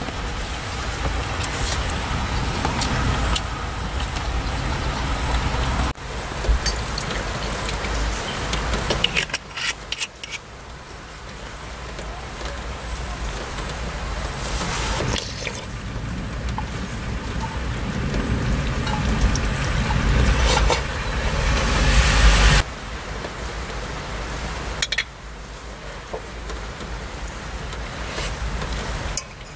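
Heavy rain falling and drumming on surfaces, with scattered sharp drip ticks and a deep rumble beneath. The sound cuts abruptly from one rain recording to the next several times.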